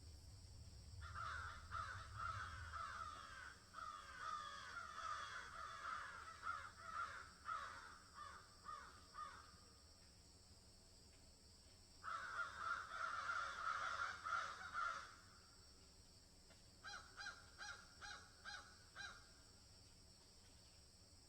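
Birds calling in bursts: a long stretch of quick, overlapping calls, a second busy burst about halfway through, then a run of about seven evenly spaced calls near the end, with quieter pauses between the bursts.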